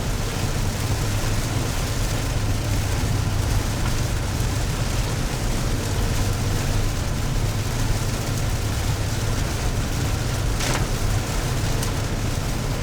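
Steady low rumble and hiss of a car driving, heard from inside the cabin. One brief click near the end.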